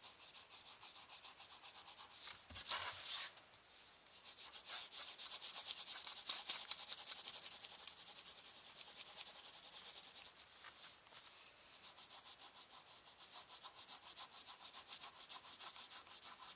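Rapid back-and-forth scribbling of a colouring tool on paper, about five strokes a second, as a drawing is shaded in, louder for a moment about three seconds in and again around six seconds in.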